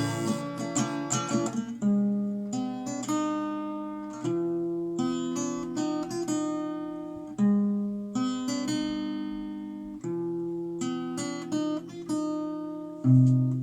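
Acoustic guitar playing the song's instrumental ending without vocals: chords picked and strummed, each left ringing and fading before the next strong chord comes in every two to three seconds.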